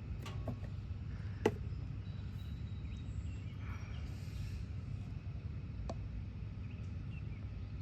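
A few light clicks and knocks over a steady low outdoor rumble. The sharpest click comes about a second and a half in.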